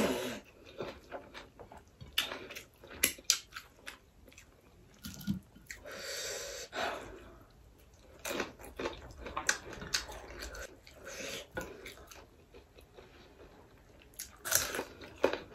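A person chewing and biting rice and fried duck eaten by hand: a string of short, wet mouth clicks and smacks, with a short hiss about six seconds in and a louder run of chewing near the end.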